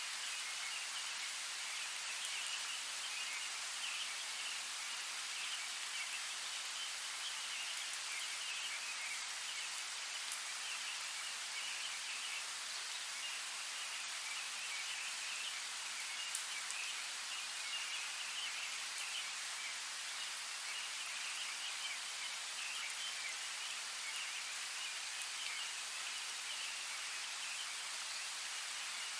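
Steady rain falling in a forest, an even hiss with a couple of sharper drip ticks, one about a third of the way in and a louder one past the middle.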